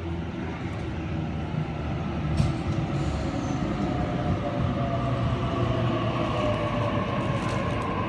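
Double-deck electric suburban train pulling into the platform and slowing to a stop, its wheels rumbling on the rails under a steady whine, with a single clunk about two and a half seconds in.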